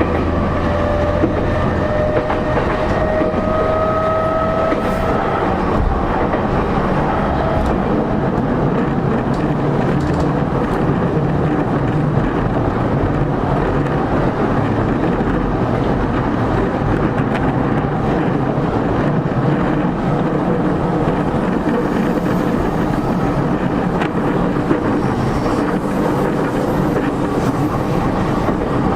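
Cabin-interior running noise of a JR East E231-0 series EMU, heard from inside a motor car. The traction-motor whine rises in pitch over the first few seconds as the train gathers speed, then gives way to a steady, loud rumble of wheels on rail with rail-joint clatter.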